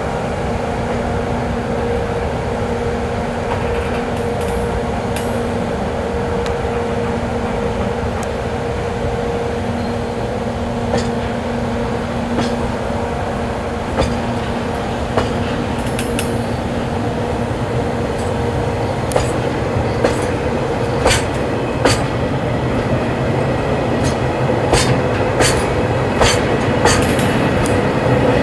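Freight train hauled by a pair of EF64 electric locomotives rolling out of a station with a steady rumble and hum. Its wheels clack over the rail joints, sparse at first and then coming quicker and quicker as the train picks up speed.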